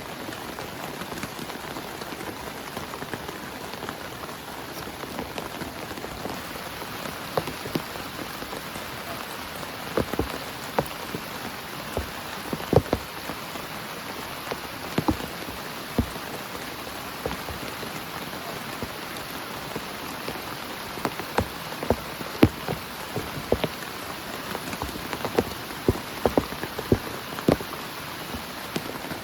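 Heavy rain falling steadily on a tent, with single large drops striking sharply at irregular moments. The strikes come more often in the second half.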